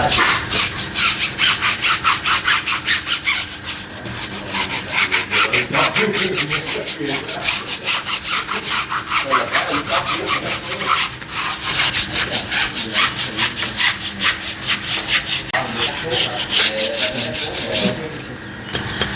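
Stiff brush scrubbing a surface with quick back-and-forth strokes, about five a second, pausing briefly a few times.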